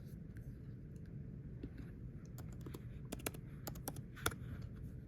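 Typing on a computer keyboard: a scattering of sharp key clicks, most of them in the second half.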